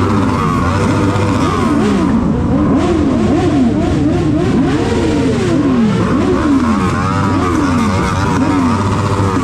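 Several motorcycle engines revving up and down again and again, overlapping one another, over a steady low engine hum.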